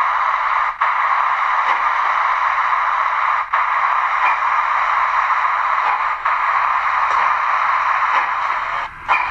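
An OO gauge model steam locomotive's sound system plays a loud, steady steam hiss through its small onboard speaker, with a few brief breaks.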